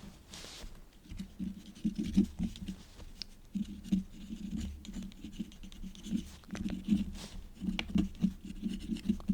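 Quill pen nib scratching across paper in quick, uneven writing strokes, starting about a second in.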